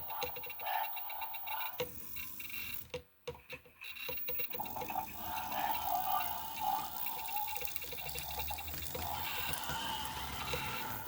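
A few light clicks of handling, then a Proto 2000 HO-scale Alco FA model locomotive's motor and drive running under test with a steady whine, its fan bearings freshly oiled and running without squeal.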